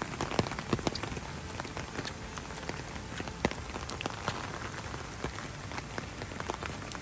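Steady rain, with many irregular sharp drop hits close by over an even hiss.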